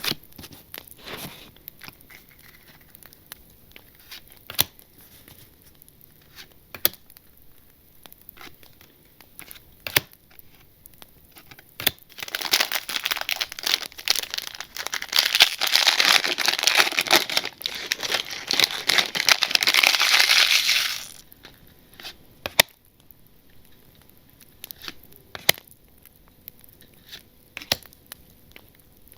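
Trading-card pack wrapper being handled and torn open: scattered light crinkles and clicks, then about nine seconds of loud, dense crinkling and tearing that stops suddenly, followed by more scattered clicks.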